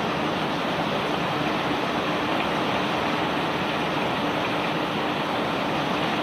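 Conveyor belt carrying rock, running as a steady rushing noise with a faint steady hum.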